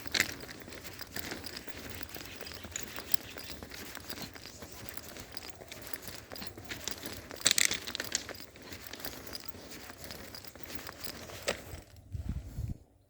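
Footsteps with crunching and crackling underfoot, full of small irregular clicks, with a short sharp hiss about seven and a half seconds in and a few low thuds near the end.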